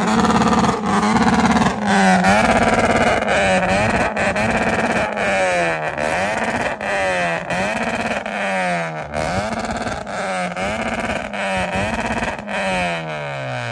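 Honda CR-V's four-cylinder engine held at high revs on the rev limiter in a two-step contest. The revs dip and climb back a little under once a second, with short sharp pops throughout, then fall away toward idle near the end.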